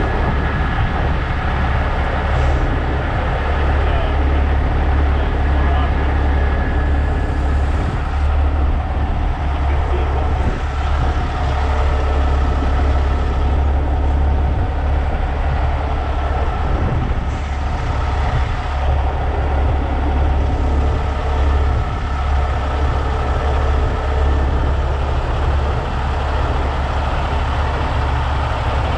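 Heavy truck diesel engine running steadily, with a strong low hum.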